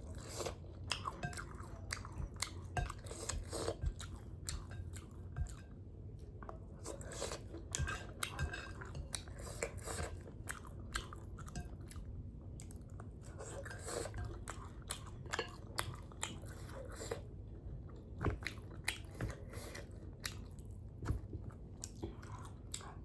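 A person chewing and biting food: sausage and spicy noodles. Many irregular sharp mouth clicks and smacks throughout.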